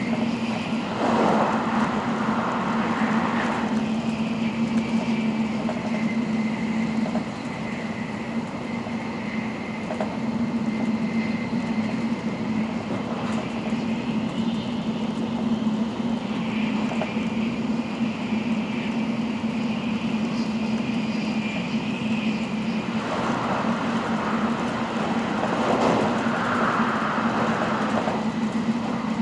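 Running noise of an N700-series Shinkansen at speed: a steady rush of wheels and air with a constant low hum. It swells briefly near the start and again for several seconds near the end.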